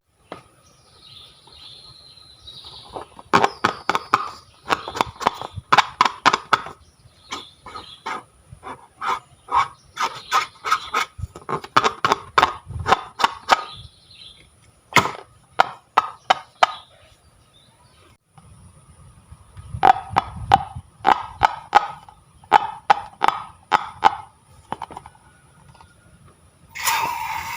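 Slime being squeezed and worked by hand, giving quick runs of sticky clicks and pops in several bursts with short pauses between.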